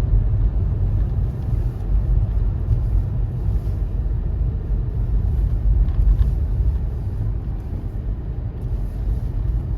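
Steady low rumbling noise, loudest in the deep bass, with no distinct events in it.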